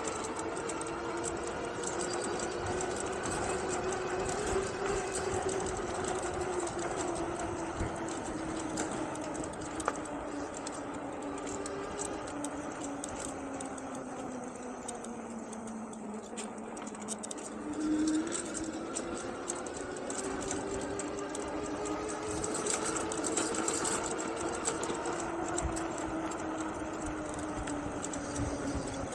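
Engwe Engine Pro e-bike's 750 W hub motor whining as it rides, the pitch sinking slowly as the bike slows toward the middle and rising again as it picks up speed, over a steady hiss.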